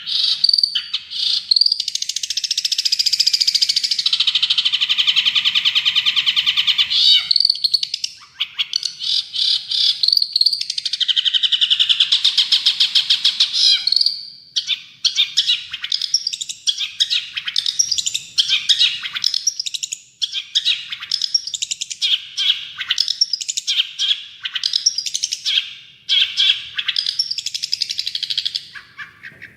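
Long-tailed shrike (cendet) singing non-stop: long, rapid, buzzy trills for the first half, then quick, choppy chattering phrases.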